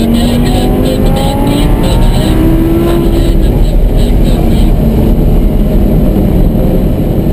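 Lamborghini Gallardo's V10 engine under hard acceleration on track, heard from inside the cabin. Its pitch rises slowly over the first three seconds or so, then it runs on steadily at high revs.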